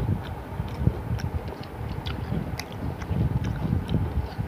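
Close-up eating sounds: chewing and wet mouth smacks with irregular small clicks as someone eats yogurt mixed with flattened rice, puffed rice and banana, over a low rumble.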